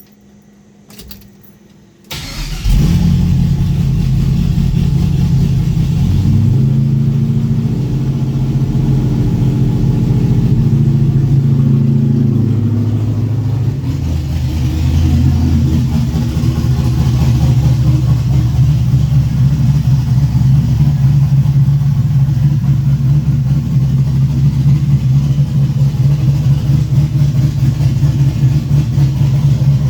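A 4.8 L LS V8 with a Texas Speed MS4 camshaft and no mufflers fires up about two seconds in and runs loud at a raised idle. About halfway through the idle drops and turns choppy and uneven, the lope of the big camshaft through the open exhaust.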